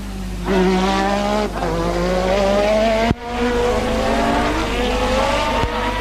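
Formula One race car engines running at high revs, the engine note climbing steadily as the car accelerates, with two abrupt breaks about halfway through and near the end.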